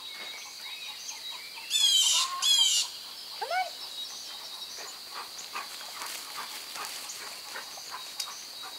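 Birds calling outdoors: two loud bursts of rapid, high chirping about two seconds in, a shorter call just after, then scattered faint chirps over a steady high-pitched hum.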